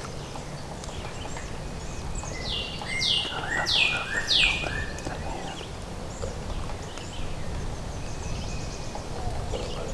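A wild bird singing a run of four quickly falling whistled notes a couple of seconds in, with a few fainter chirps, over steady wind noise on the microphone.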